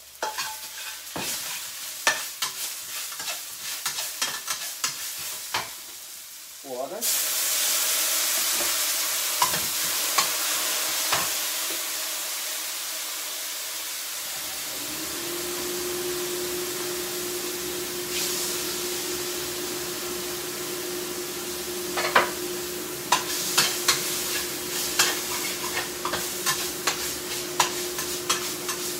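A spatula clicking and scraping in a pan, then about seven seconds in a loud sizzle starts as food hits hot fat and keeps frying. A steady hum comes in about halfway, and the clicks and scrapes of stirring come back near the end over the sizzle.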